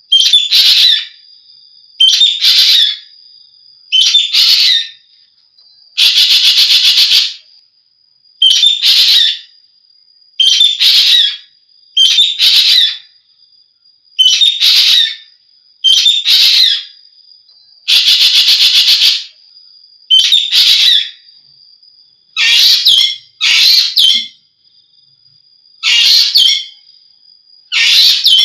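Asian glossy starling (jovin) giving loud, shrill calls about a second long, repeated roughly every two seconds, a few of them harsher and buzzier. A faint steady high whine runs underneath.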